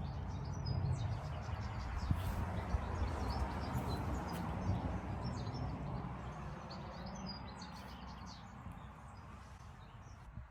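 Small birds chirping and tweeting in short high calls, over a steady low rumble that slowly fades toward the end.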